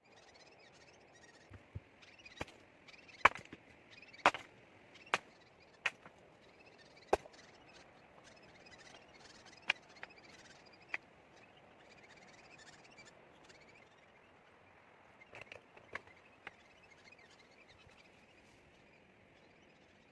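Wood being chopped: a dozen or so sharp knocks at irregular intervals, most in the first half and a short group of three near the end. Under them is a faint steady outdoor background with bird chirps.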